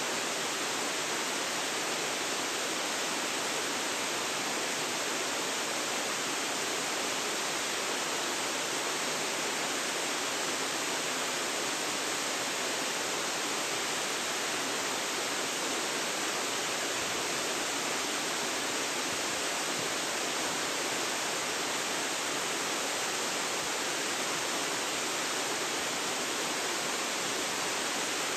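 Waterfall rushing steadily, an even roar of falling water without change, picked up by a phone's built-in microphone.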